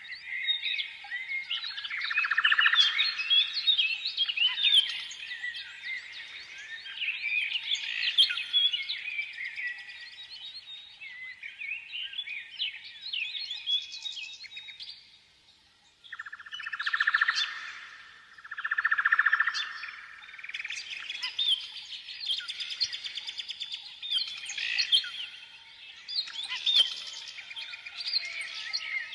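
A chorus of many small birds chirping and twittering at once, dense quick overlapping calls. The chorus dies away briefly a little past halfway, then starts up again suddenly.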